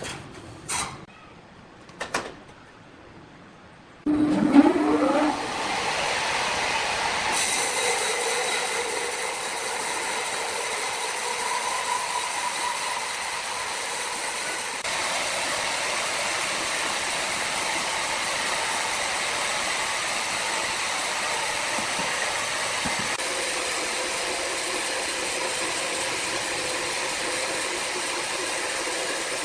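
Sawmill machinery: a few knocks, then a machine starts suddenly with a rising whine and runs on with a steady mechanical noise.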